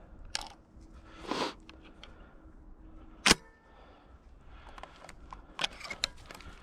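A single sharp click about three seconds in, with softer rustling before it and a few light clicks near the end.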